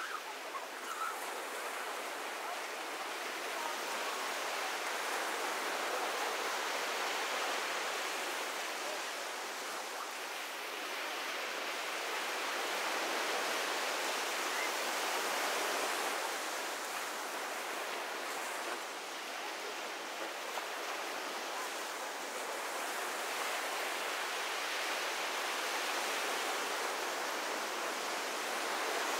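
Ocean surf washing onto a beach: a steady hiss of breaking waves that slowly swells and eases.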